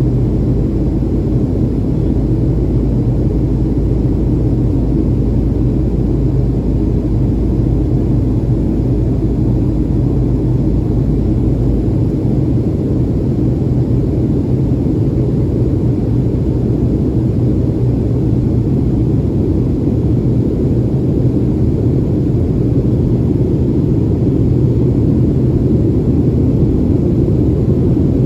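Steady engine and airflow drone heard inside the cabin of a Boeing 737 in flight, a deep rumble with a low hum; the deepest part of the rumble eases off about twelve seconds in.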